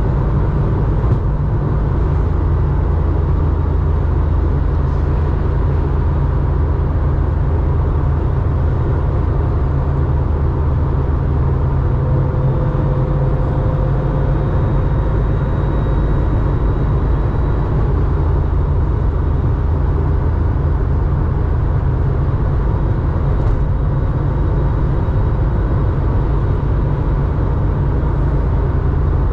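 1987 Porsche 911's air-cooled flat-six, enlarged to 3.4 litres and breathing through a 2-in-1-out muffler, running steadily under way with a constant low drone.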